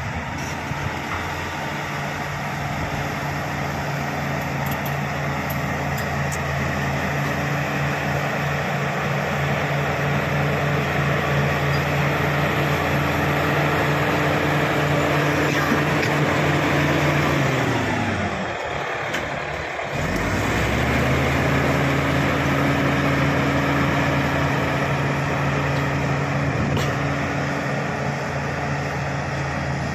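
Shantui SD16 bulldozer's diesel engine running steadily at working speed. About eighteen seconds in, the engine speed falls away and the sound briefly drops. Some two seconds later it picks back up to the same steady note.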